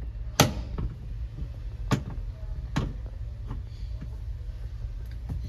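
Sharp plastic clicks and knocks, about six, the loudest about half a second in, as the lint filter is fitted back into a Mabe semi-automatic twin-tub washing machine, over the steady low hum of its spin tub running.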